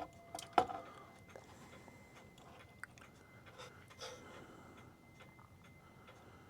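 A running pendulum clock movement ticking faintly, under small handling clicks and knocks of metal parts as the movement and its mounting brackets are worked into the case. A sharp click about half a second in is the loudest sound.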